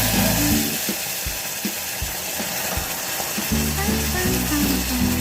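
Food sizzling as it fries in hot oil in a pan: a steady, dense hiss, with background music underneath.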